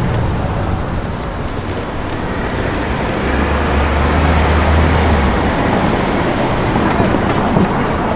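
City street traffic: cars driving past, with a low steady engine drone from about three to five seconds in.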